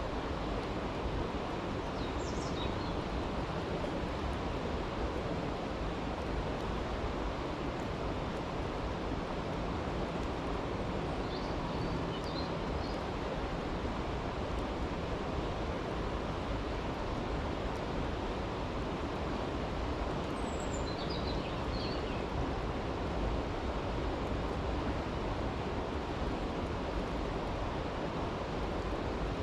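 Steady rushing of a creek, with faint, brief high chirps three times.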